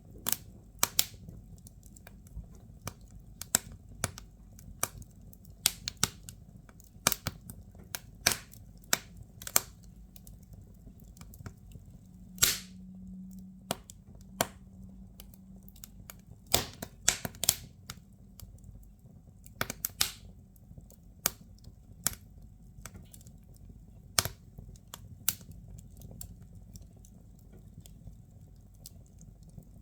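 Firewood burning in a fireplace, crackling with irregular sharp pops and snaps over a steady low rumble of the flames.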